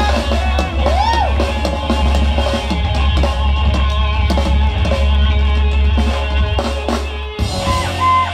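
Reggae band music with a heavy bass line, drum kit and guitar playing; the bass drops out near the end.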